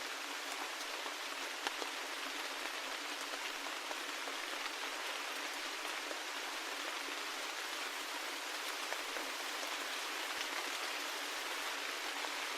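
Steady rain: an even hiss of falling rain with scattered faint ticks of individual drops.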